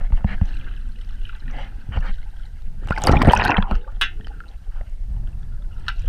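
Water recorded underwater beside a sailboat's hull: gurgling and sloshing over a low rumble, with scattered knocks. There is a louder rushing surge about three seconds in and a sharp click just after it.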